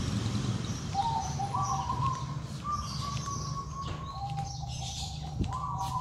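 Birds calling: a string of held, whistle-like notes that step between a few pitches, over a steady low rumble.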